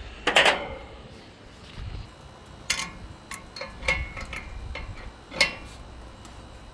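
Metal tools clinking and tapping against the condenser fan motor's mounting hardware as it is worked loose: a short scraping burst near the start, then several sharp separate clicks over the next few seconds.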